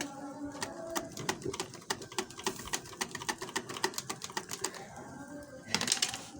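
Chicken cooking over a charcoal grill, with quick, irregular crackling and popping from the coals and dripping fat. A short, louder rush of noise comes near the end.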